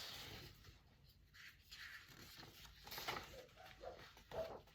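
Near silence: faint room tone with a few soft rustles and a brief tap near the end.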